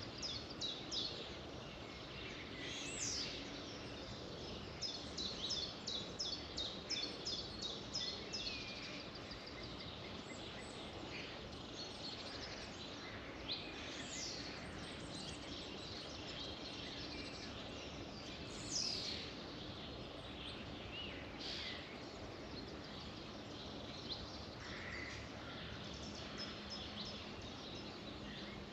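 Several wild birds singing and calling over a steady background hiss. About five seconds in comes a quick run of repeated high notes, and here and there single high notes slide downward.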